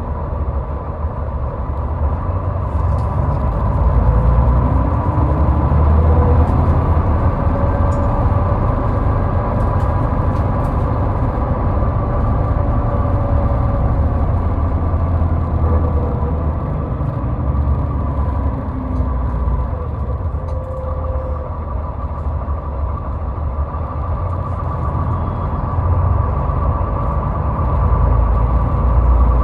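Steady highway driving noise: a continuous deep rumble of tyres and engine with a faint steady whine above it, swelling a little twice as traffic or speed changes.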